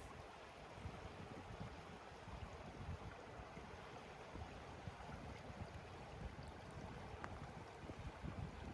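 Faint, steady rushing outdoor noise with an uneven low rumble underneath.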